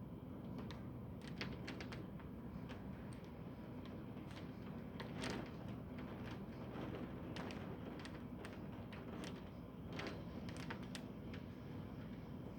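Rain dripping during a thunderstorm: irregular scattered taps of drops hitting a hard surface, a few louder than the rest, over a steady low background noise.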